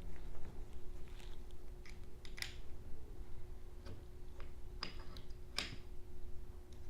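Scattered light clicks and taps of small metal and plastic 3D printer parts being handled and fitted during assembly, a few seconds apart, over a faint steady hum.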